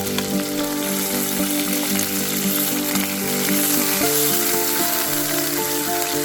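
Meat frying in hot oil, a steady sizzle, under background music of held notes.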